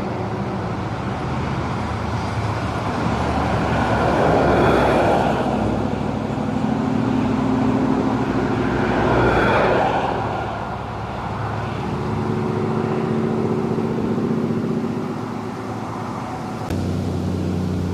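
Road traffic, trucks among it, crossing a highway bridge. Two vehicles go by with a swell of tyre and engine noise, about four and nine seconds in, over a steady engine hum. Near the end a lower engine drone starts abruptly.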